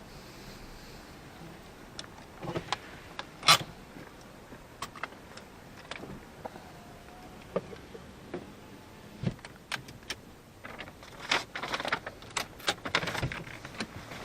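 Handling noises inside a just-parked car: scattered clicks and knocks, with a sharp click about three and a half seconds in and a quick run of clicks and rattles near the end.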